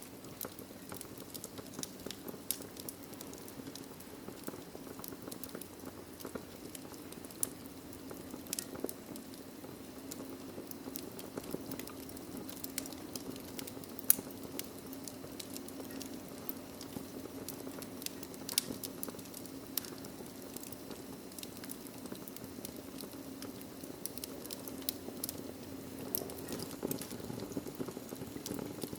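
Wood fire in a fireplace crackling, with many small pops and snaps and one sharper pop about fourteen seconds in, over a low steady hum.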